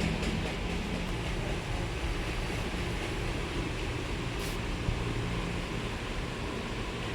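Steady low rumble and hiss of background noise, with one faint tick about four and a half seconds in.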